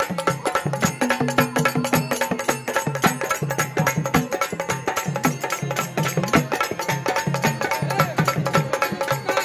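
Marathi bhajan music without singing: a fast dholki drum rhythm of sharp, closely spaced strokes over a repeating low drum pattern, with melodic accompaniment.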